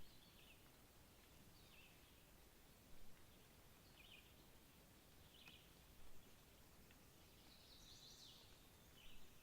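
Faint bird calls: short high chirps repeated every second or two over a quiet background hiss.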